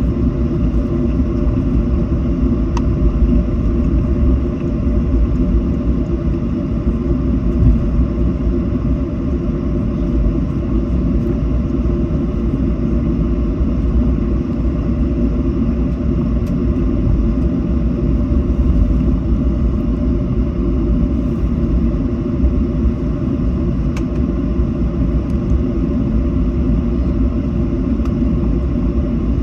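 Steady low rumble of cabin noise inside a Boeing 737 taxiing after landing.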